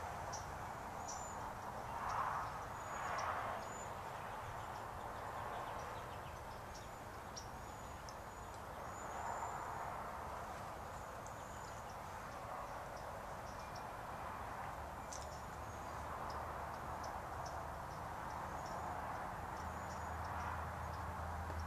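Small birds chirping: short, high chirps scattered irregularly over a soft, steady outdoor background.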